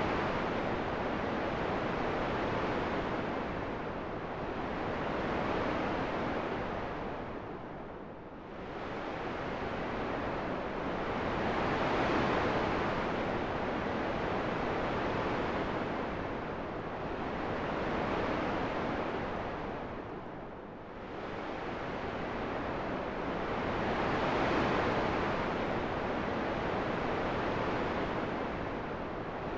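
Wind blowing in a steady, even hiss that slowly swells and eases every few seconds, dipping lower twice.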